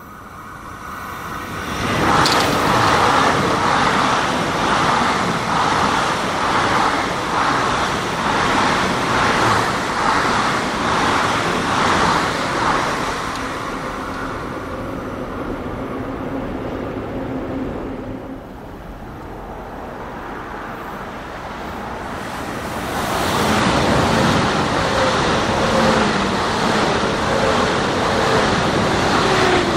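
ICE high-speed electric train running past on the line, a steady rush of wheels on rail that grows loud about three-quarters of the way in. Before that, a loud stretch of passing rumble with a faint regular pulse fills the first half, and a quieter lull comes between the two.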